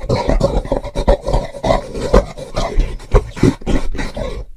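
Orangutan calling: a rapid, continuous run of short, rough calls, several a second.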